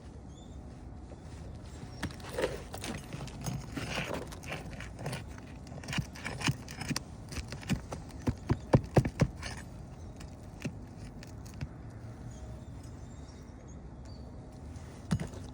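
A run of irregular knocks and thuds, coming quickest and loudest about eight to nine seconds in, with a couple more near the end.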